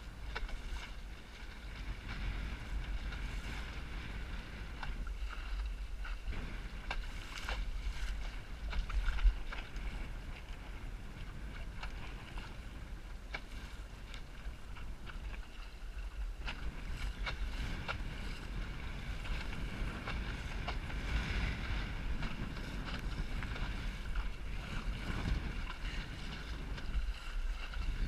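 Strong wind buffeting the microphone over water splashing around a small Snark sailboat under way in high wind. A few sharp knocks sound, the loudest about nine seconds in.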